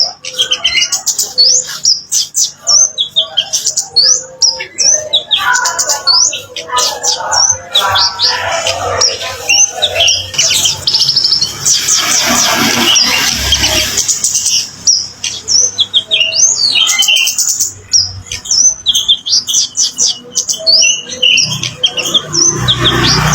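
Kemade song: a fast, varied run of sharp chirps and whistles, with a rapid buzzy trill about halfway through.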